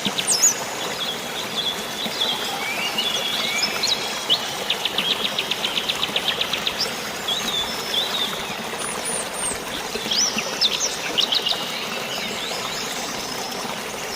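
Birds chirping and calling in short, scattered phrases, with a rapid trill of about eight notes a second around five seconds in, over a steady hiss of rain and flowing water.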